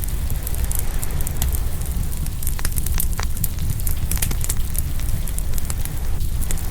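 Open wood fire crackling, with sharp pops scattered throughout, over the steady wash of ocean waves.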